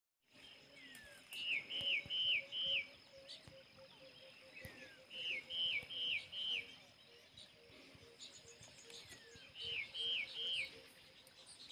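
A songbird repeating a short phrase of three or four quick, identical notes, three times a few seconds apart, over a steady high-pitched background hum.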